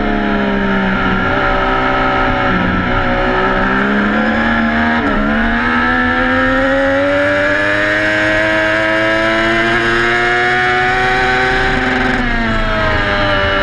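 Onboard sound of a racing motorcycle's engine. It falls in pitch while slowing into a corner, stays low through the turn, then climbs steadily for several seconds under acceleration, with a sudden drop in pitch near the end like a gear change.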